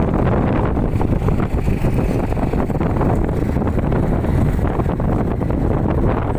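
Wind buffeting the microphone on a moving motorcycle, a steady loud rush mixed with the ride's road and engine noise.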